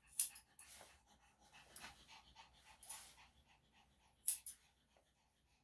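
Grooming scissors snipping a Yorkshire Terrier's foot hair, four sharp snips spaced a second or so apart, with the dog panting between them.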